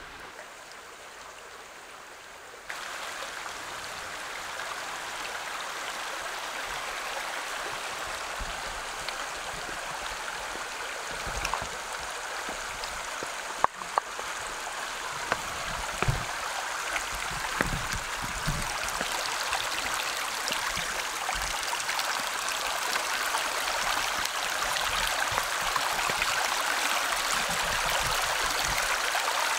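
Creek water running over rocks: a steady rushing that jumps up about three seconds in, then grows slowly louder. A few short knocks sound near the middle.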